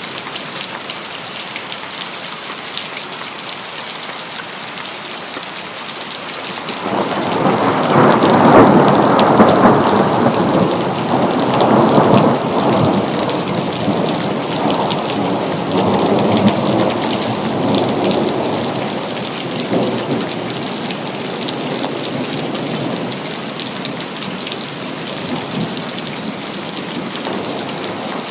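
Steady city rain hissing throughout. About seven seconds in, a long roll of thunder swells up, is loudest for a few seconds, then rumbles away slowly while the rain goes on.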